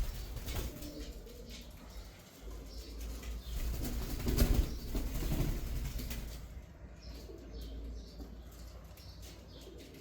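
Pet green parrot flapping its wings in a bout that builds about two and a half seconds in, is loudest around four and a half seconds, and fades after about six and a half.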